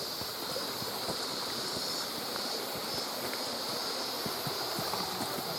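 Mountain stream water rushing steadily beside and over the trail, with a steady high-pitched hiss above it and scattered small clicks throughout.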